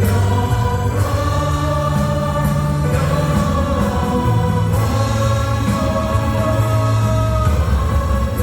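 Korean worship praise team singing a slow hymn-like song in unison with held notes, backed by keyboard, drums, acoustic guitar and a strong bass line.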